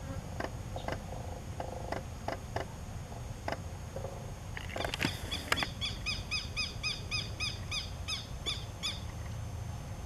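A bird calling in the background: a run of quick, evenly repeated chirps, about three or four a second, starting about halfway through and lasting some four seconds. Before it come a few faint irregular clicks over a low rumble.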